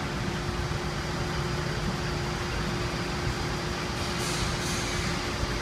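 Freshly rebuilt Toyota 2AZ-FE 2.4-litre inline-four idling steadily on its first run, with a constant whine over a low rumble. A short hiss about four seconds in.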